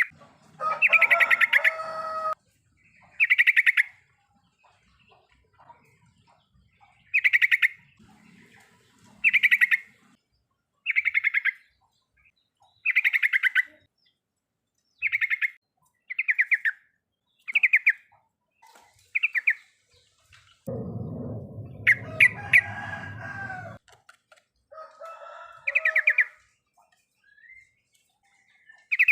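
Yellow-vented bulbul singing short bubbly phrases, one about every one to two seconds. About three-quarters of the way through comes a longer chattering run with a low rumble under it.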